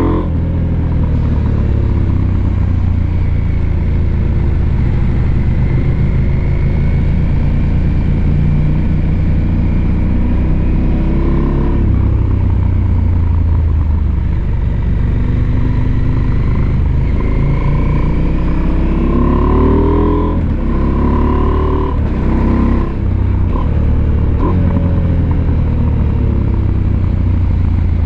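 Husqvarna Norden 901's 889 cc parallel-twin engine running under way, its revs rising and falling again and again as the rider accelerates and changes gear, with a brief drop in loudness near the end.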